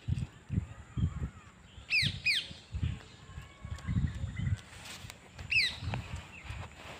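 Birds calling: quick, sharp, falling chirps, two close together about two seconds in and one more past five seconds, with a faint steady high tone behind them. Low muffled bumps come and go throughout.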